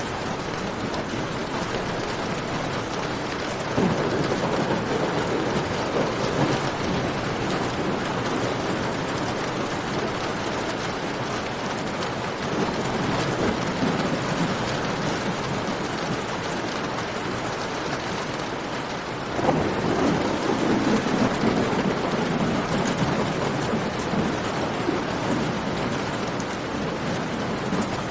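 Steady rain falling, with two sudden, louder rumbling swells, one a few seconds in and one about two-thirds through, each dying away over several seconds.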